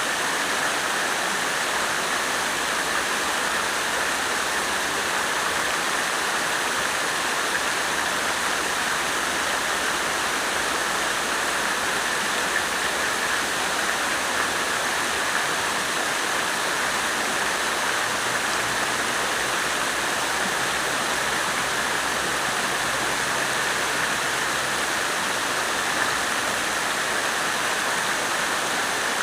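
Water fountain splashing steadily: falling water making a continuous, even rush.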